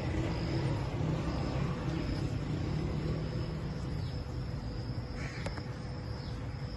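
Insects chirping in short repeated trills over a steady low rumble; everything cuts off suddenly near the end.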